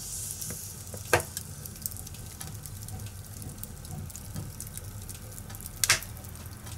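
Fire crackling: a steady low rush scattered with small ticks, and two loud, sharp pops, one about a second in and one near the end.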